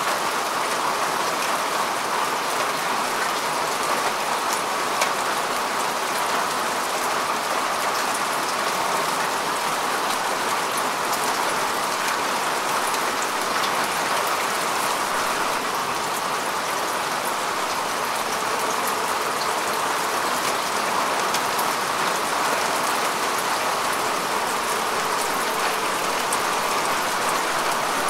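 Steady rain falling on earth and grass, an even hiss with scattered individual drop ticks.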